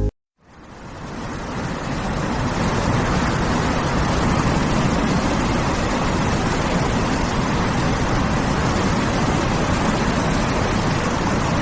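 Steady rushing noise with no distinct tones, fading in over the first couple of seconds and then holding even.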